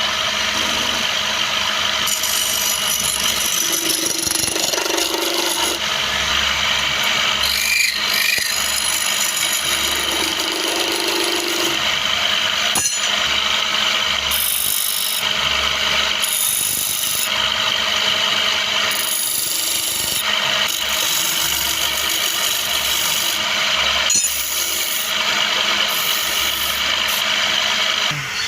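A tool scraping and rasping against wood in continuous, uneven strokes, with a steady machine hum underneath.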